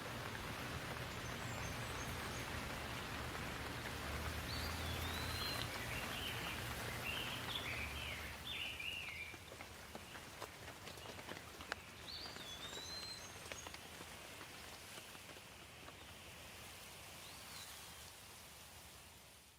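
Steady rain falling, with a few sharper drips landing. A bird chirps in short phrases now and then, most busily in the first half.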